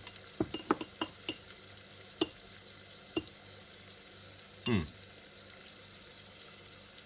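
Onion and bottarga frying gently in olive oil in a pan, a soft steady sizzle. Scattered clicks and knocks of a utensil against the pan sound over it, with one short falling squeak a little past the middle.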